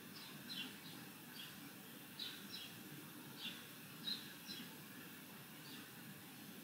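Faint bird chirps: a dozen or so short, high chirps that slide downward, coming irregularly, over a steady low room hum.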